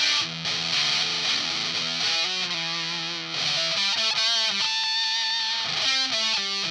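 Electric guitar played through a Sola Sound White Spirit Mk IV Tone Bender fuzz pedal at full gain: thick, distorted riffing, with a few longer held single notes in the middle.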